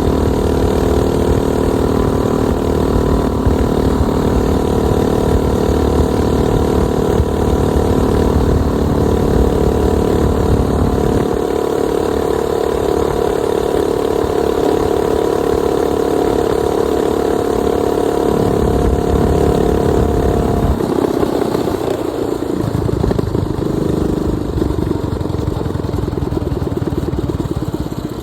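Minibike's 212 cc single-cylinder engine running at steady high revs, then easing off about two-thirds of the way through to lower, uneven revs.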